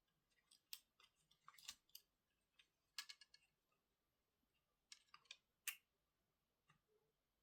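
Faint, sparse clicks and light taps from small tools and parts being handled during laptop repair, coming in a few short clusters.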